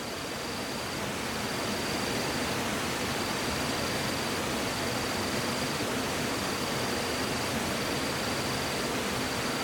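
Steady rushing noise, rising slightly about a second in, with a high, even insect call repeating in stretches of about a second separated by brief gaps.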